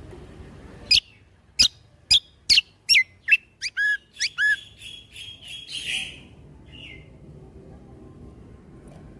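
Kecial kombo (Lombok cucak kombo) songbird singing a fast run of sharp, high whistled notes that each sweep downward, about two a second. The run ends in a short harsh, buzzy note about six seconds in, followed by only a low background hum.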